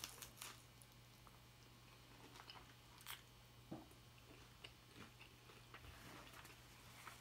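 Faint chewing of a crunchy hard-shell taco, with scattered crisp crackles of the shell every second or so.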